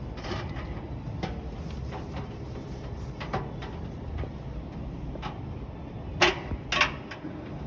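Scattered light clicks, then two loud knocks about half a second apart near the end, typical of a display washing machine's door being handled and shut. A steady low rumble runs underneath.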